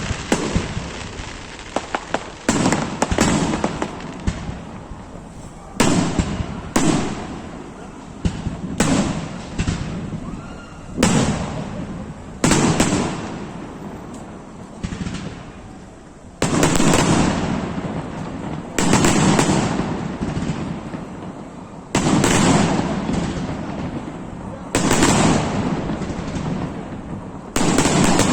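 Aerial fireworks display: shells bursting one after another with sharp bangs every one to three seconds, each trailing off in a rumbling echo, with bursts of crackling in between. The heaviest bangs come in the second half.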